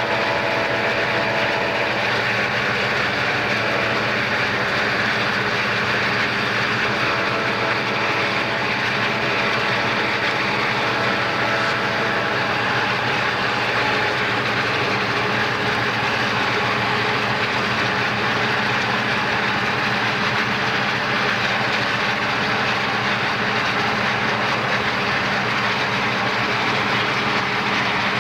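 Southern Pacific diesel freight locomotives running steadily alongside, heard from a moving car pacing the train, mixed with steady road and wind noise.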